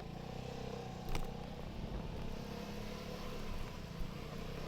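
Vespa scooter engine running steadily while riding, with a single sharp click about a second in.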